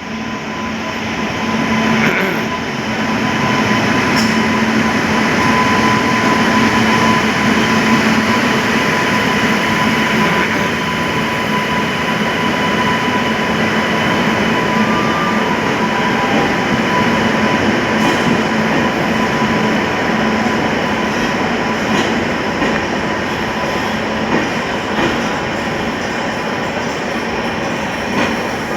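Train running steadily along the track: a continuous rumble and rattle of the wheels with a faint steady whine, building up over the first couple of seconds and then holding even.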